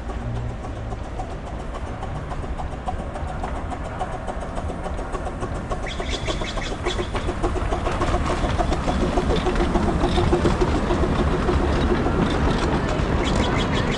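Miniature 15-inch-gauge steam train of the Redwood Valley Railway running on its track, growing steadily louder. Rapid clicking joins in from about six seconds in.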